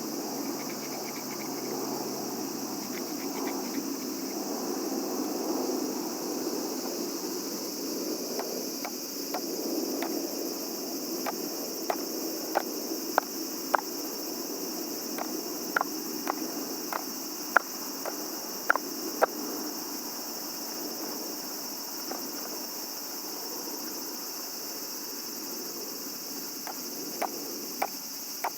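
Crickets and other night insects chirring in a steady high chorus, with a run of sharp clicks or snaps about halfway through and a few more near the end.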